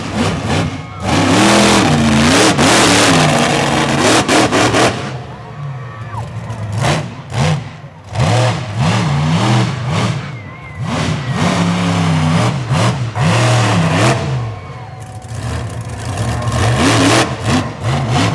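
Monster truck engine revving hard in two long bursts, its pitch climbing and dropping repeatedly, with quieter stretches between the bursts.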